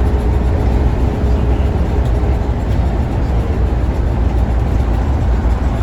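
Scania OmniLink city bus heard from inside the passenger cabin while driving: a steady low rumble of engine and road noise. A faint steady whine fades out about halfway through.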